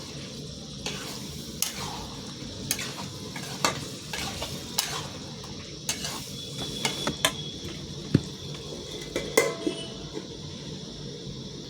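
Chicken curry sizzling in a pan as it is stirred, the spoon knocking and scraping against the pan about once a second.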